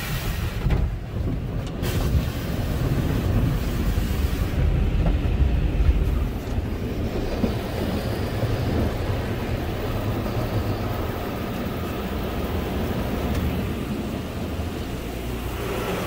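Tunnel car wash equipment working over the car, heard from inside the car: a steady rumbling wash of noise with no distinct strokes.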